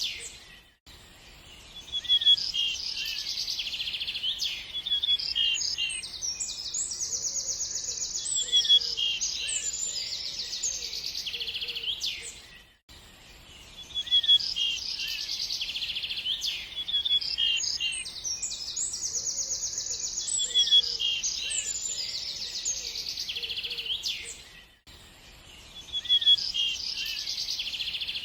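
Songbirds chirping and trilling in a dense chorus, with a quieter low call beneath. The same stretch of song repeats about every twelve seconds, each time after a brief lull.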